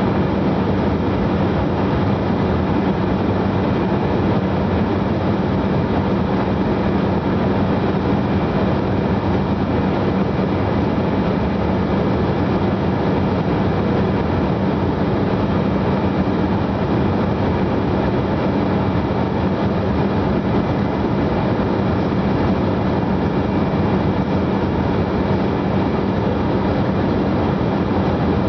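Steady cabin noise of a jet airliner in flight, engine and airflow noise heard from inside the cabin, with a constant low hum beneath it.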